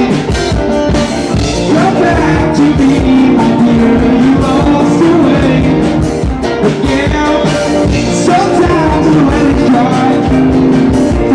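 Live rock band playing a song, with a singer over guitar and a steady beat.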